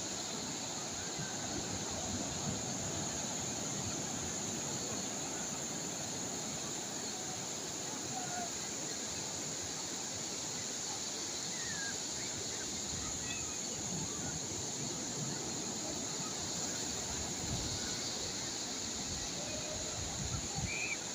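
Calm sea waves washing steadily, with wind noise, a constant high hiss and a few faint short chirps.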